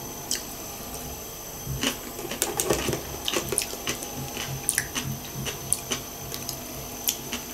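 Close-up eating sounds: wet chewing and mouth smacks from eating sushi rolls, with small clicks of chopsticks against the sauce dish. They come as a string of short, sharp ticks that grows busier about two seconds in.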